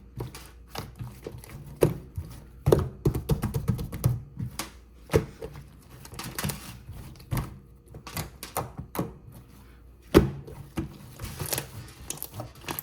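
Irregular clicks, taps and knocks of kitchen utensils and dishes being handled, with a few louder knocks about two, five and ten seconds in.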